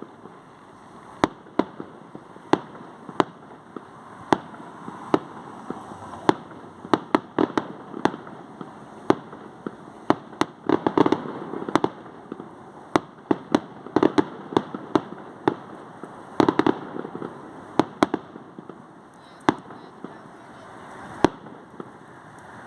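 Fireworks going off: a long run of sharp bangs at irregular intervals, thickening into quick crackling clusters about halfway through and again a few seconds later, over a steady background rumble.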